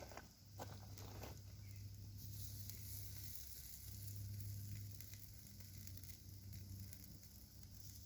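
Faint, steady sizzling over a campfire, rising in a little after two seconds in, with a few sharp crackles in the first second.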